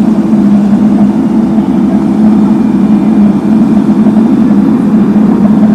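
Heavy diesel engine of road-paving machinery running steadily at a constant speed, a loud even drone.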